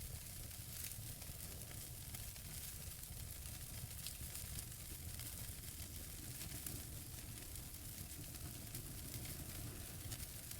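Wood fire burning in a fireplace: a steady soft hiss of the flames with many small, quick crackles and pops from the logs.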